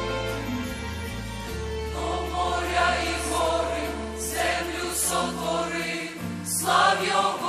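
Choir singing a Ukrainian worship hymn over a sustained bass and keyboard-style accompaniment. The voices come in about two seconds in, after a short instrumental passage.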